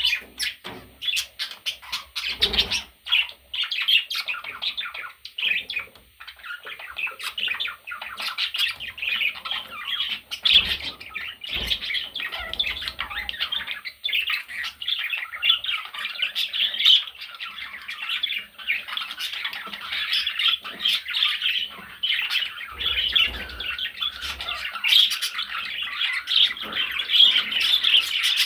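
Budgerigar chattering and warbling: a continuous run of fast, high chirps and squawky notes.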